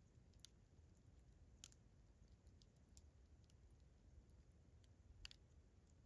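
Campfire crackling faintly: sparse, sharp pops of burning wood a second or two apart, the loudest about five seconds in, over a faint low rumble.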